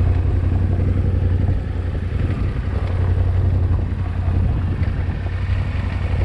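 Yamaha Ténéré 700 motorcycle's parallel-twin engine running steadily while being ridden, a constant low hum.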